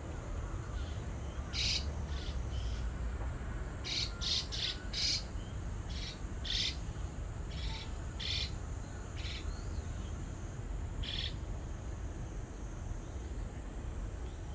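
Short, harsh bird calls repeated irregularly, about a dozen of them and most crowded in the first half, over a steady low hum.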